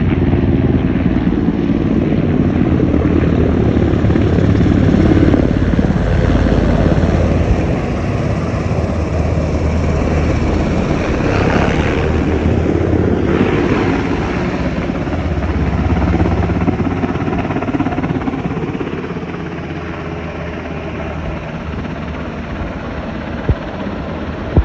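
Firefighting helicopter running close by with a steady rotor beat, loudest in the first several seconds and fading somewhat over the last third as it moves off.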